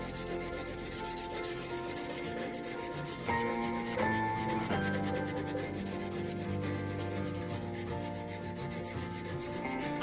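A steady, scratchy rubbing of abrasive on the steel of a chisel being sanded and polished, over background music.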